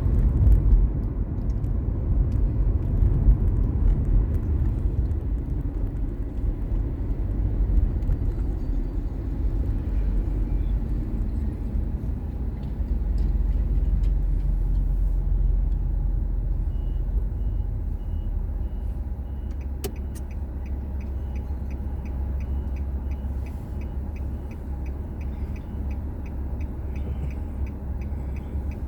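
Car on the move: a steady low rumble of road and engine noise that eases a little past the middle. A faint, regular ticking, a few times a second, joins in over the last third.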